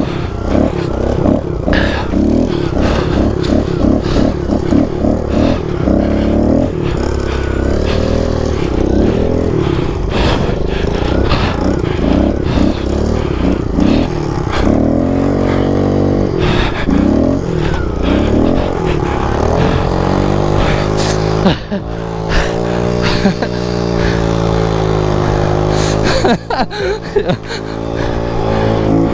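Small four-stroke single-cylinder Kawasaki pit bike engines being ridden. The engine note rises and falls repeatedly as the throttle is worked, with scattered knocks and clatter.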